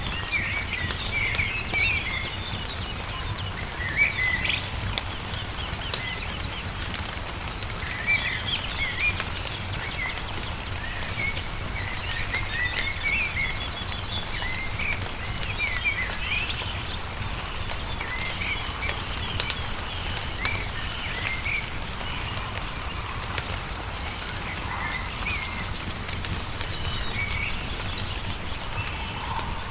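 Small birds chirping and singing in short repeated phrases over the scattered sharp pops of a crackling wood fire, with a steady low rumble underneath.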